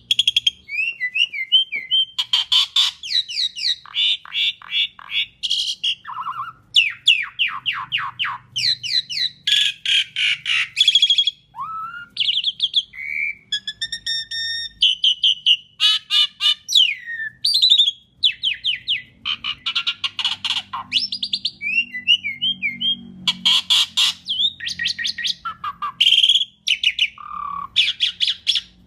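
Asian pied starling (jalak suren) in full song: a long, nearly continuous, varied stream of fast chattering rattles, squawks and short rising whistles.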